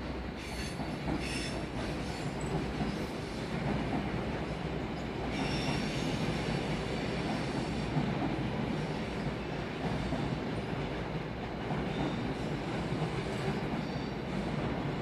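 Vy Class 75 electric multiple unit running through the station, its wheels squealing in high tones about half a second in and again from about five seconds, over a steady low rumble of the train.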